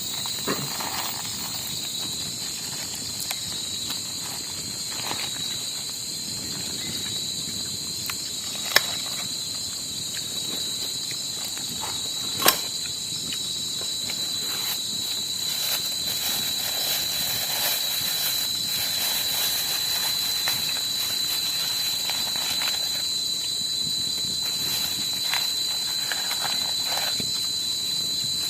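Steady high-pitched chorus of insects, crickets or cicadas, with two sharp knocks in the middle.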